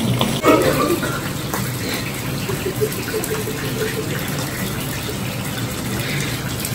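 Food frying in hot oil in a frying pan, a steady sizzle.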